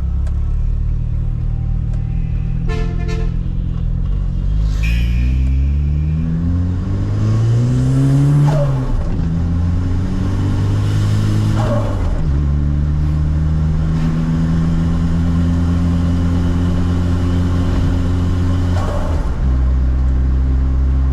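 Turbocharged Maruti Zen's engine heard from inside the car under light acceleration, the revs climbing and then dropping at gear changes about eight and twelve seconds in and again near the end, with a short rush of turbo intake air at each shift. In between it runs steadily at cruising revs.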